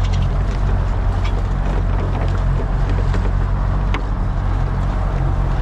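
MacGregor 26 sailboat's outboard motor running steadily under way, a constant low drone, with wind and water hiss over it and a few faint ticks.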